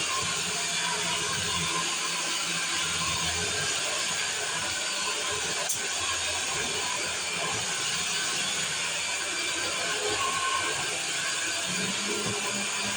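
Vacuum cleaner running steadily, a constant airy hiss with a low hum underneath. One sharp click about six seconds in.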